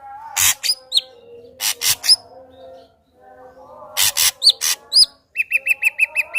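Ashy drongo in full song: harsh rasping calls mixed with sharp downslurred whistles, ending in a fast run of about ten short clipped notes, roughly seven a second.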